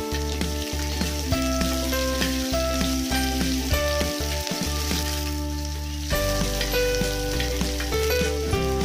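Sliced onions and chillies frying in hot oil in a kadai: a steady sizzle. Background music with held notes and a bass line plays over it.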